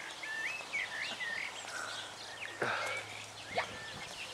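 Small birds chirping, a run of short rising and falling notes. A brief thump about two and a half seconds in, the loudest sound, is followed by a sharp click about a second later.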